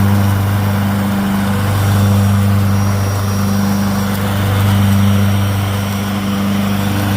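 Riding lawn mower engine running steadily at working speed, with its blade engaged and a slight rise and fall in level every couple of seconds.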